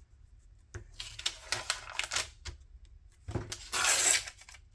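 Paper and craft tools being handled on a work table: a run of light clicks and scrapes, then a louder rustle of paper about three and a half seconds in.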